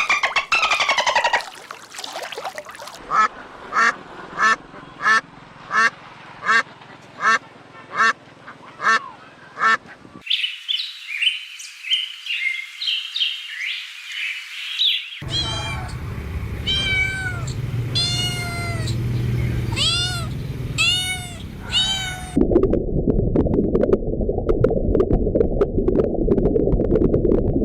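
A run of different farm and pet animal calls, cut one after another. First come short calls repeated evenly about twice a second, then high chirping, then a series of pitched mewing calls that rise and fall, and finally a rougher, noisy low stretch near the end.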